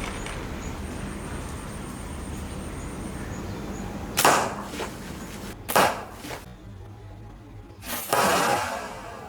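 Slingshot shots: after a steady hiss, three sharp whooshing snaps, the last one longer than the others.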